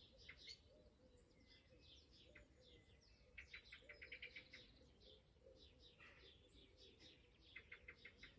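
Faint birdsong from several small songbirds: scattered high chirps, with quick runs of trilled notes about three and a half seconds in and again near the end.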